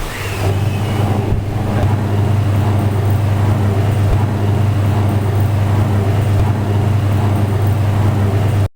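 Electric motor running with a steady, loud low hum, cutting off suddenly near the end.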